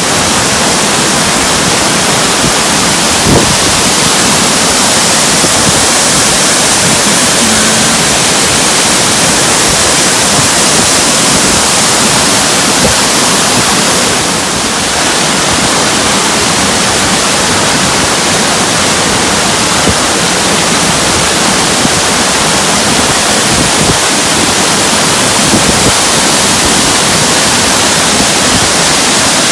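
Waterfall rushing close by: loud, steady falling water, easing slightly about halfway through.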